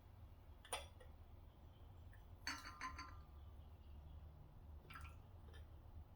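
A few light clinks and taps of hard objects against each other, with a short cluster of ringing clinks about two and a half seconds in, over a faint low hum.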